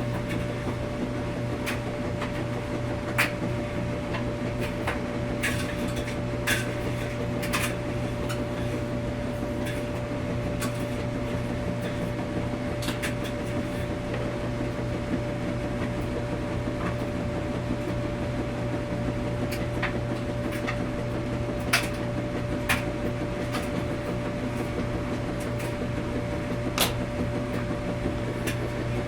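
Washing machine running with a steady low hum and a fainter steady higher tone, with scattered light clicks and knocks every few seconds.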